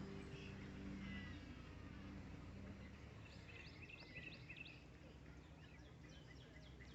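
Faint birds chirping in quick bursts of short call notes, strongest about halfway through, over a low background hum. A tail of background music fades out in the first couple of seconds.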